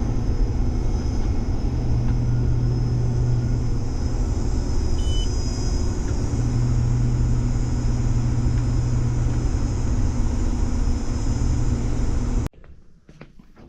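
Combine harvester running steadily, heard from inside the cab: a loud low hum over a steady hiss. It cuts off abruptly near the end, leaving a few faint clicks.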